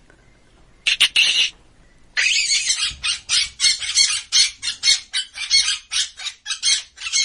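An animal giving harsh, rasping calls: a short double call about a second in, then a rapid run of about three calls a second.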